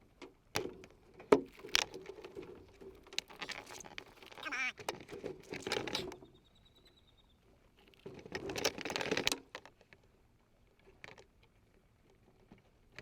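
Scattered sharp clicks and knocks, with two longer stretches of scraping and rustling, as live blue crabs are handled.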